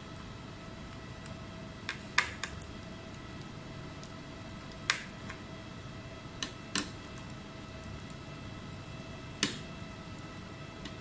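Scattered sharp clicks and taps of small tools and parts being handled, a few seconds apart, with a cluster of three about two seconds in, over a steady faint electronic whine.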